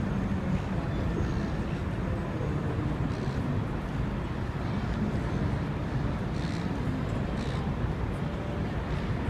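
Steady low rumble of busy railway-station ambience, with traffic-like noise and faint distant voices, holding at an even level throughout.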